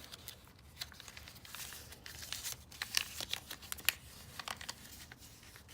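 Sheet of paper being folded and creased by hand, giving a run of light crinkling and rustling crackles.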